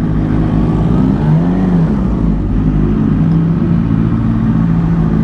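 Suzuki GSX-R600's inline-four engine running under way, heard over wind rumble on the GoPro's microphone. Its pitch rises and falls back about a second in, then holds fairly steady.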